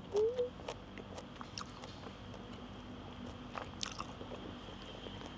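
A person chewing crunchy food close to the microphone: many small, irregular crunches and clicks, with a short rising hum near the start.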